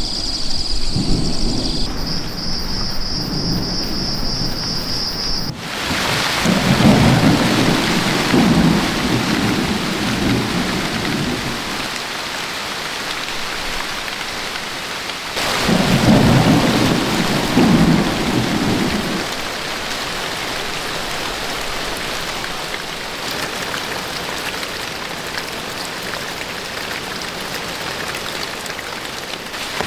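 Heavy rain falling, with thunder rumbling twice, about six and sixteen seconds in. For the first five seconds a high steady buzz sits over a low rumble.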